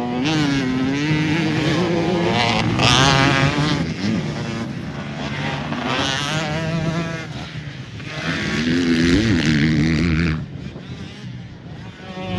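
Motocross bikes racing, their engines revving up and down sharply as they work the track, with more than one engine heard at once. Near the end, one engine climbs steadily in pitch as it accelerates.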